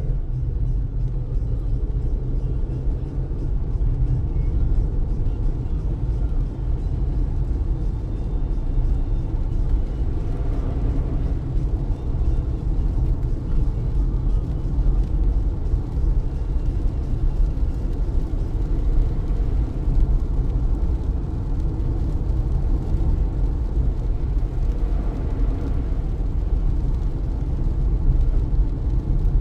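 Car driving in heavy rain, heard from inside: a steady low rumble of road and engine noise with the rain.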